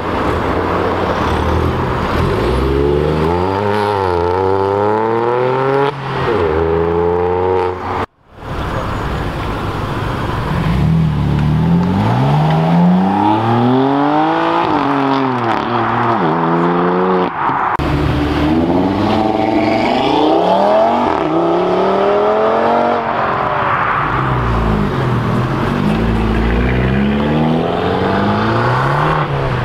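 Performance cars accelerating hard away one after another, each engine revving up and falling back at the gear changes. A brief dropout about eight seconds in and a cut later mark a change from one car to the next.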